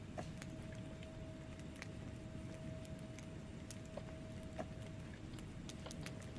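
Wood fire burning in a fireplace: a low steady rumble of flames with scattered sharp crackles and pops from the logs, about two a second.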